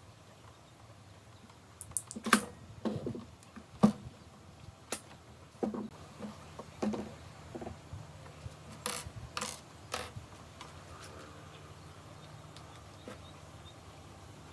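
A dozen or so irregular light clicks and knocks, like small parts or tools being handled and set down, stopping about ten seconds in.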